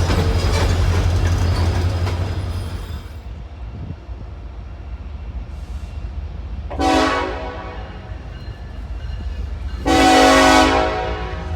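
Diesel locomotive running with a steady low engine rumble; the loud rail noise of the first few seconds fades, then the horn gives a short blast about seven seconds in and a longer blast near the end.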